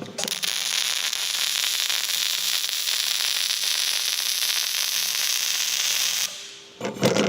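MIG welding arc on carbon steel laying a flat fillet bead: a steady crackling hiss that stops about six seconds in.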